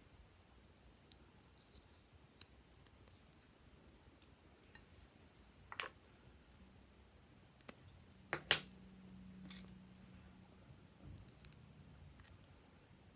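Glossy slime being mixed and handled: sparse faint clicks, with a few louder sharp pops near the middle.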